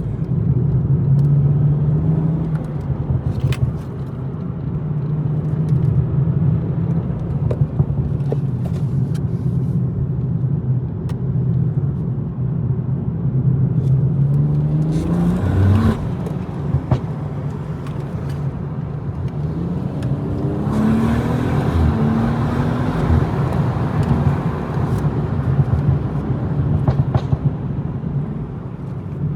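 BMW M240i's turbocharged straight-six driving at moderate load. About halfway through, it revs up in a rising glide that breaks off suddenly. A few seconds later a second, louder pull follows, with the pitch climbing and dropping.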